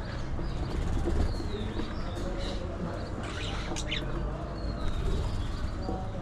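Budgies chirping and chattering in short scattered calls, with a few sharp notes, over a steady low rumble.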